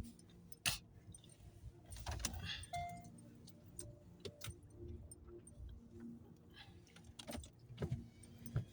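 Inside a car driving on a snowy highway: a low engine and road rumble with scattered light clicks and rattles.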